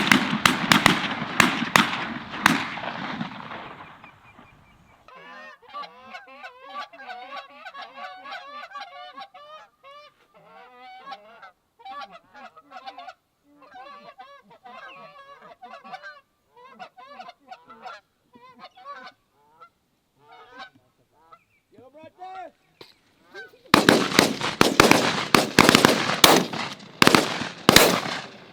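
A flock of geese honking, many birds calling over one another. The honking is loud and close for the first few seconds, stops suddenly, and goes on fainter and more scattered through the middle. It comes back loud and dense near the end, starting abruptly.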